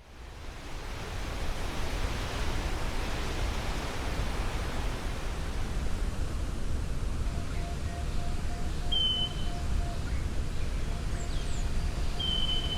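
Steady wind ambience, a rushing noise heavy in the low end that fades in at the start. About seven seconds in, a faint rapid pulsing beep comes in, and two short high electronic chirps sound near the middle and again near the end.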